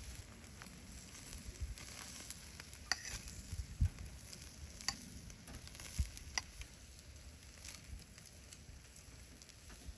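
Crackling and sizzling at a wood fire: sharp pops every second or so over a faint steady hiss, with a few low knocks.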